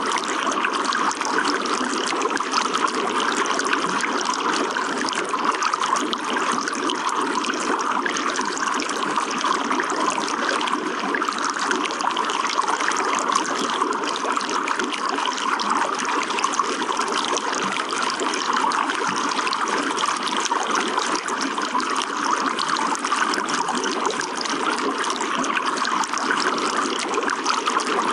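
Running water trickling and splashing steadily, with no let-up.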